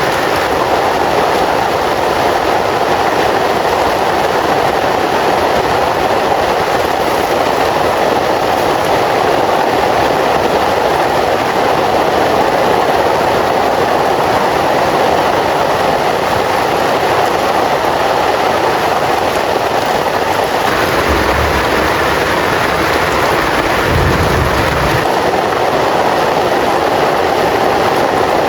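Heavy rain falling steadily, a dense even hiss, with two brief low rumbles near the end.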